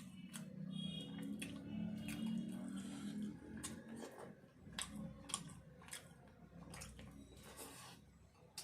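Chewing and lip-smacking while eating chicken biryani: a loose run of short, wet clicks and smacks at the mouth, over a faint low hum during the first three seconds.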